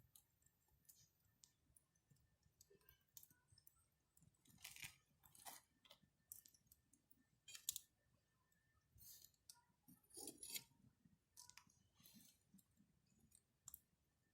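Wood campfire crackling faintly, with irregular small pops and snaps and a few louder cracks now and then.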